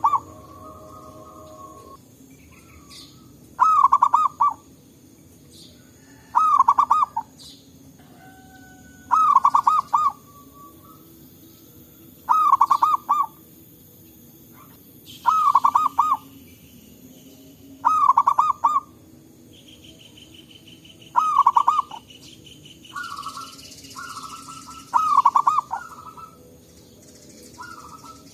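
Zebra doves singing their staccato cooing song: a short burst of rapid trilled coos, repeated about every three seconds, nine times over, with fainter answering coos between some of the phrases.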